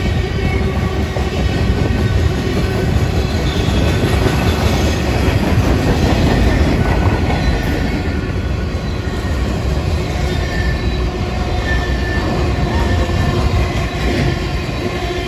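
Freight train cars (covered hoppers and tank cars) rolling past close by: a loud, steady rumble of steel wheels on rail, with a faint steady squeal over it.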